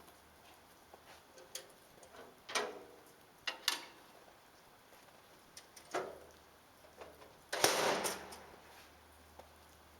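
A few scattered footsteps and scuffs, irregular and spread out, with one louder crunching step near the end.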